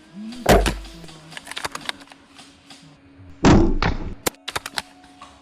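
Close airsoft gunfire: two loud shots about three seconds apart, with quick runs of sharp cracks from more shots and BBs striking around them.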